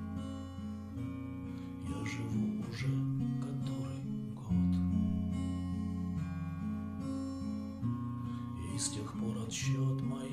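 Acoustic guitar strumming chords over a sustained low bass, in an instrumental stretch of a pop song; the chords change every second or two.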